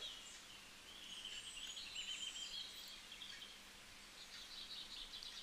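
Faint chirping of birds in the background: thin, wavering, high-pitched calls over quiet room tone.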